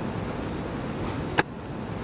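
Sea surf and wind with a steady rushing noise, broken by one sharp click about one and a half seconds in.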